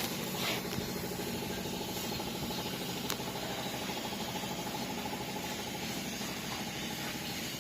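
Small diesel engine of a movable concrete block machine running steadily, with a fast even chugging, and a sharp click about half a second in and another about three seconds in.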